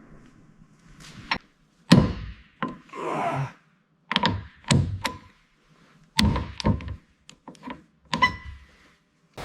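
A series of about a dozen irregular thunks and knocks, hard objects striking at uneven intervals with brief silences between, some leaving a short ring, and a short scrape in the middle.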